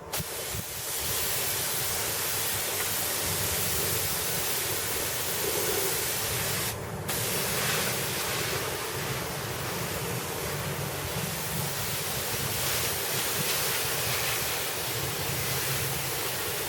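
Spray gun hissing steadily while spraying gelcoat, with a brief break about seven seconds in when the spray is stopped and started again.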